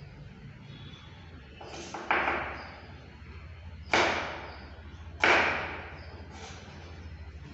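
Three loud clatters of kitchen gear, about 2, 4 and 5 seconds in, each trailing off over about a second, with a couple of lighter knocks between and a steady low hum underneath.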